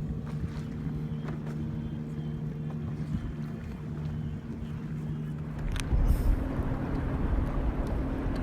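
Motorboat engine droning steadily, with a low hum held at an even pitch. About six seconds in the hum gives way to louder wind on the microphone and rushing water.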